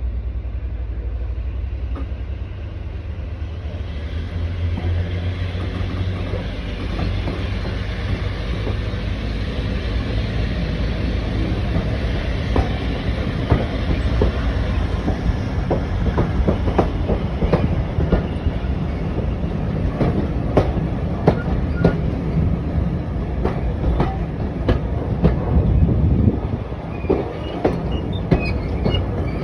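Class 50 diesel locomotive's English Electric V16 engine running under power as it pulls a train away. Sharp clicks of wheels over rail joints come in about halfway through and grow more frequent as the train picks up speed.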